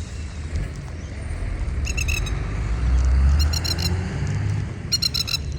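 Rapid bursts of harsh, chattering alarm calls from a swooping bird, coming three times. Under the calls is a low rumble of passing traffic.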